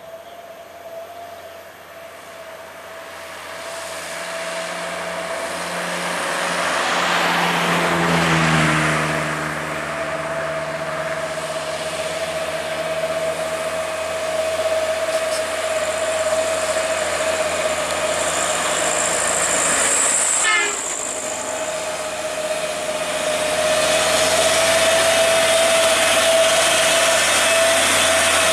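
Heavy diesel trucks passing on a steep highway grade. The noise builds a few seconds in, one truck passes close about eight seconds in with its engine note falling in pitch, and a steady high whine runs underneath.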